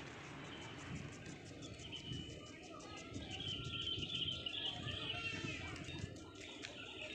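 Small birds chirping: a run of short, high chirps over a few seconds, loudest in the middle, over a steady low background noise.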